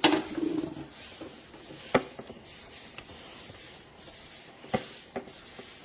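Handling noise: a rubbing scrape in the first second, then two sharp taps about three seconds apart and a fainter one after them.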